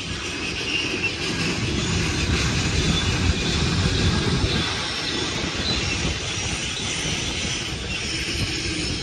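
Freight train cars rolling past on the rails: a steady rumble of steel wheels with clacking and a faint high wheel squeal.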